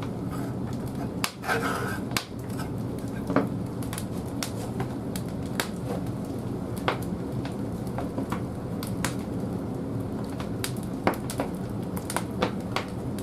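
Large firewood burning in the firebox of an old wood-fired bathhouse boiler: a steady low roar of the fire with frequent sharp crackles and pops.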